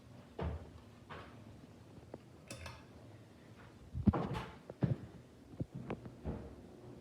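Irregular knocks and clunks, with a cluster of louder ones about four seconds in and a brief hiss about halfway, over a faint steady hum.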